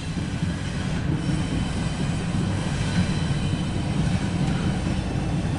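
CSX intermodal freight train's double-stack well cars rolling past at steady speed: a continuous rumble of wheels on rail with faint high ringing tones from the wheels, heard through the windshield of a car.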